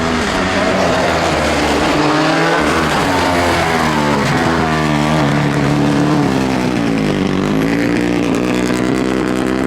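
Rally car engine revving hard, its pitch repeatedly falling and climbing again as the driver lifts and gets back on the throttle. The sound cuts off suddenly at the very end.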